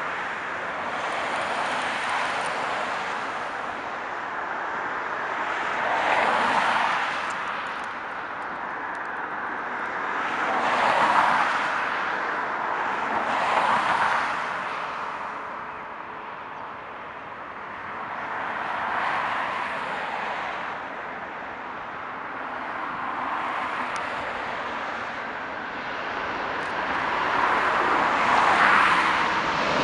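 Road traffic passing one vehicle after another, each swelling up and fading over a few seconds. Near the end a louder jet noise begins to build as the airliner approaches.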